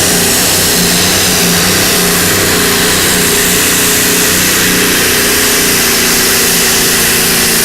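Modified-class pulling tractor's engines running loud and steady at high power, with a dense rushing noise over a steady engine tone.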